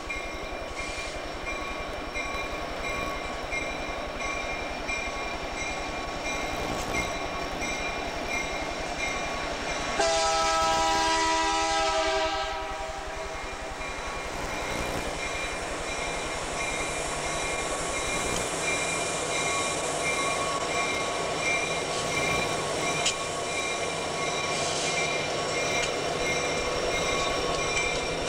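Freight train running on the rails, with the locomotive's air horn sounding one chord-like blast about ten seconds in that lasts roughly two and a half seconds.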